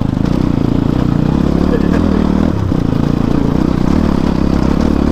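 Motorcycle engine running steadily while the bike is ridden over a rough off-road trail, easing briefly about halfway through.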